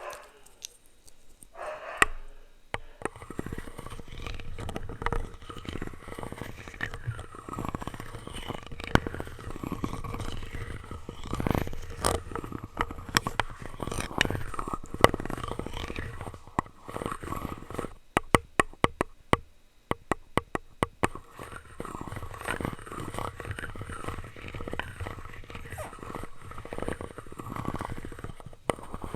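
Plastic utensils rubbed, scraped and tapped directly against a microphone, a dense low scraping rumble broken by many sharp clicks. Around eighteen to twenty seconds in comes a quick run of evenly spaced clicks.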